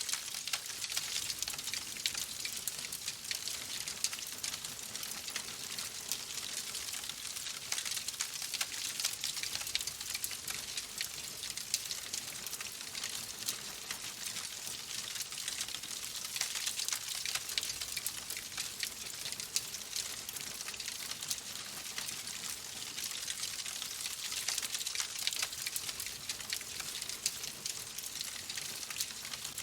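Wood fire crackling in a fireplace: a steady hiss with dense small crackles and pops throughout.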